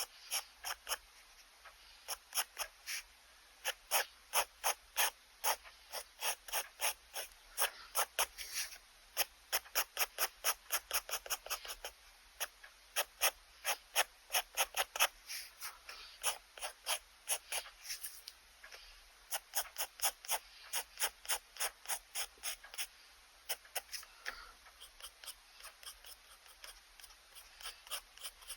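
Pen scratching across sketchbook paper in quick repeated strokes, about two to four a second, with brief pauses between runs. The strokes thin out near the end.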